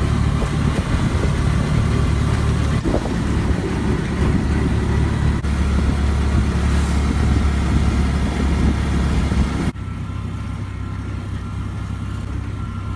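Motor vehicle running, a loud steady low rumble. About ten seconds in it cuts to a quieter, steadier hum.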